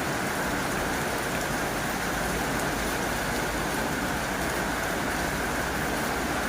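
Heavy rain drumming steadily on a tin roof: a dense, even patter of drops on sheet metal.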